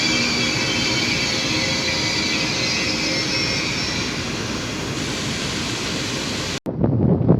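A train running through the station: steady rail noise with thin high wheel-squeal tones that fade over the first few seconds. Near the end the sound cuts off abruptly and gives way to wind buffeting the microphone.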